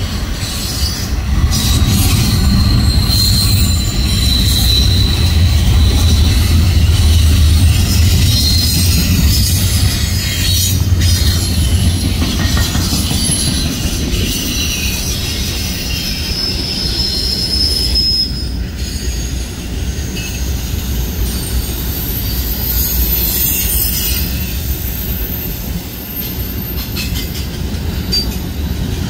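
Norfolk Southern intermodal freight train's cars rolling past at close range: a steady rumble of wheels on rail, louder in the first half, with high-pitched wheel squeal coming and going.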